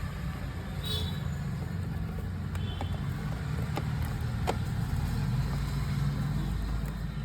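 Steady low background rumble with a few scattered light clicks and taps.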